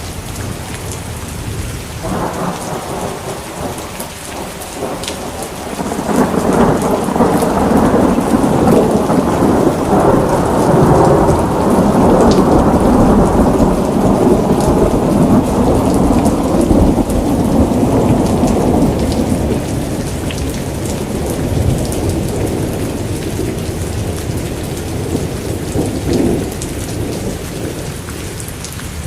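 Steady rain falling, with a long roll of thunder that builds about six seconds in, rumbles for over ten seconds and slowly dies away, and a smaller rumble near the end.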